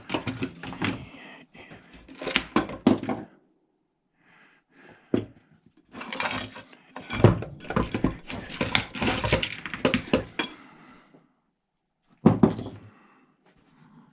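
Metal tools and small parts clinking and clattering in bunches of sharp knocks with short pauses: hand tools and screwdriver bits being sorted through for a Robertson bit that fits.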